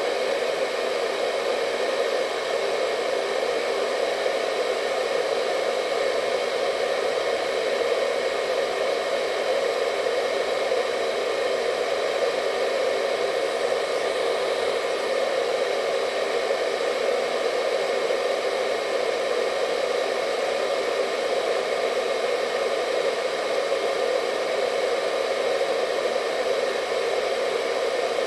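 Hair dryer running steadily, a constant whooshing hum of fan and airflow with a faint whine above it.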